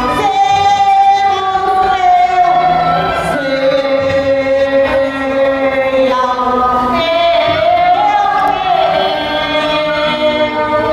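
Music: a song with singers holding long notes with vibrato, choir-like, over accompaniment.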